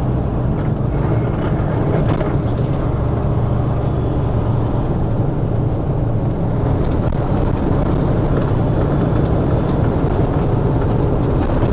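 Steady drone of a semi truck's diesel engine and road noise, heard from inside the cab while cruising on the highway.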